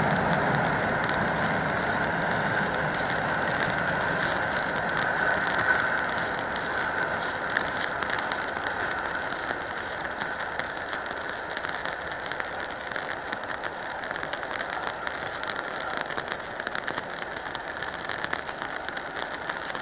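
A passenger train hauled by an SU45 diesel locomotive receding along the track. The low rumble fades within the first few seconds, and a hiss of wheels on the rails dies away steadily after it.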